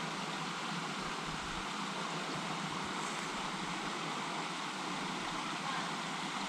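Steady rushing of a small creek's water running over rocks.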